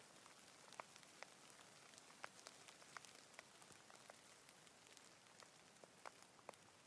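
Faint, steady rain: a soft hiss with scattered individual raindrops ticking through it.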